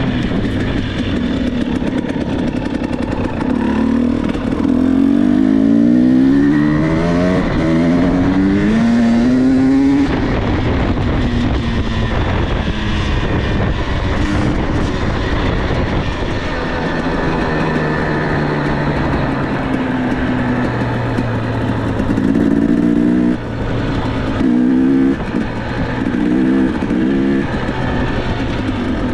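Dirt bike engine running under throttle. Its pitch climbs again and again in the first ten seconds as it accelerates, then it runs steadier, with short bursts of revving near the end.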